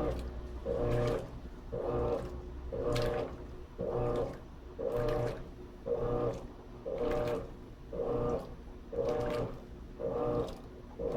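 Electrolux LT13B top-load washing machine in its agitation stage: the agitator motor hums in short strokes about once a second, reversing each time, with water and laundry sloshing in the tub.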